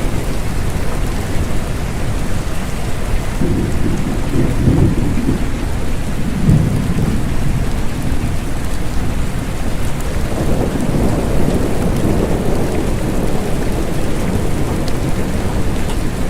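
Steady rain falling, with low rumbles of thunder swelling up a few seconds in and again from about ten seconds.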